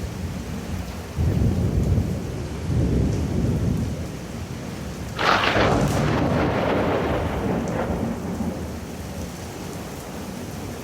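Thunder over steady rain: a deep rumble about a second in, then a sharper, louder crack about five seconds in that rolls on and fades away.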